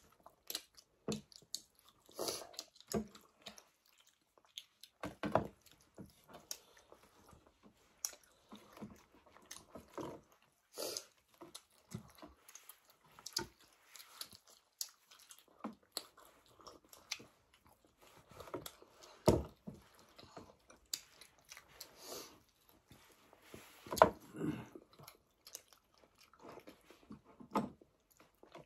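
People chewing and eating chapati with buff curry close to the microphone: irregular wet chewing and smacking sounds, with two louder ones past the middle and later on.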